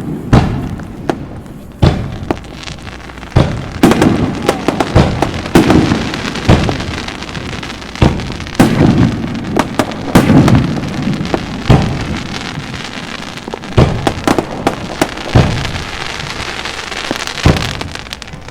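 Aerial fireworks bursting in quick succession, a deep boom about every second, each with a rolling rumble. A crackling hiss of sparkling shells fills the gaps between the booms.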